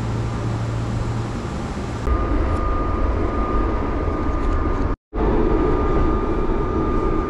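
Steady running noise of the Kintetsu Shimakaze express train: a low hum at first, then the rumble inside the carriage with a thin steady whine over it. The sound drops out briefly about five seconds in.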